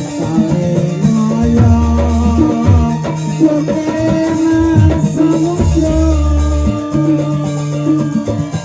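Live band music, a Javanese campursari-style passage with a steady bass line, drums and melody instruments and no clear vocal line.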